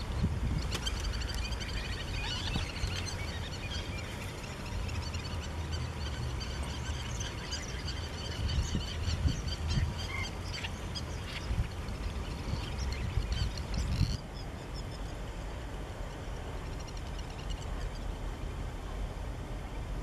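Wild birds calling, a busy mix of many short, high chirping notes over a low wind rumble on the microphone. The calling thins out suddenly about fourteen seconds in.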